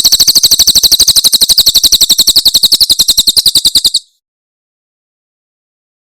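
Cililin bird singing its 'tembakan' phrase: a fast, even, high-pitched trill of sharp repeated notes, about twelve a second, that stops abruptly about four seconds in.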